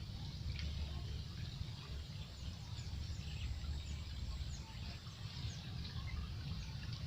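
Outdoor riverside ambience: many short, high, falling bird chirps over a steady low rumbling noise.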